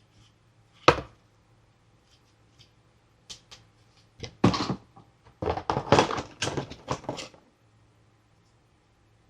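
Toy packaging being handled: a sharp tap about a second in, a few light clicks, then a stretch of rustling and crinkling from about four to seven seconds in.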